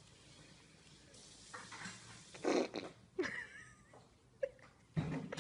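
A fart: a short, loud, rough burst about halfway through, after a couple of softer ones. Just after it comes a short sliding squeal.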